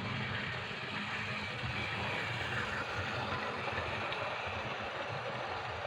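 Model Castle Class locomotive 'Earl Cairns' running on a test track, with a steady mechanical running noise from its motor and wheels.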